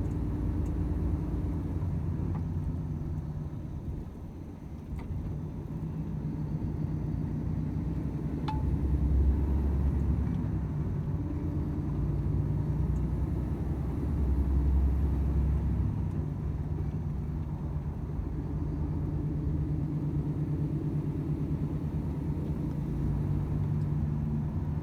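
Volvo FH 500 truck's inline-six diesel running under way, with low road rumble. The engine note dips briefly about four seconds in, and the low rumble swells twice, around ten and fifteen seconds in.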